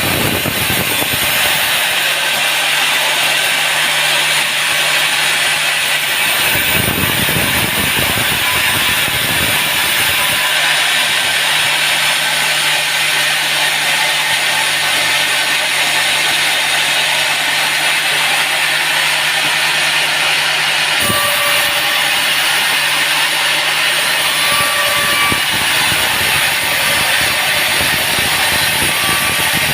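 Sawmill saw cutting teak, running with a steady low motor hum under heavy, hissing cutting noise. Deeper rumbles come in near the start and again from about seven to ten seconds in.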